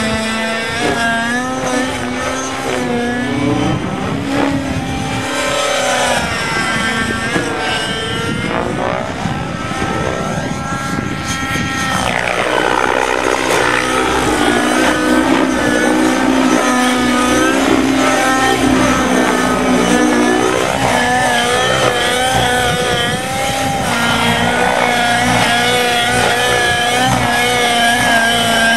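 Radio-controlled model helicopter's engine and rotor running, the engine pitch rising and falling again and again as the throttle changes, then holding steadier near the end.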